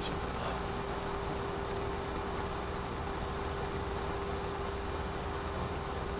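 Steady flight-deck noise of a Boeing 737 in the climb: an even rush of airflow and engine noise with a constant hum tone underneath.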